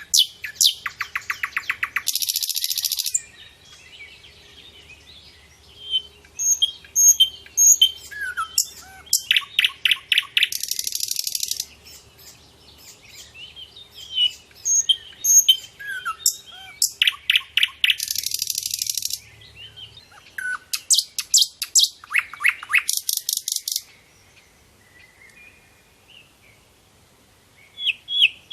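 Songbird singing: rapid trills and harsh, buzzy phrases about a second long, repeated several times between short chirps and whistled notes, with a brief lull near the end.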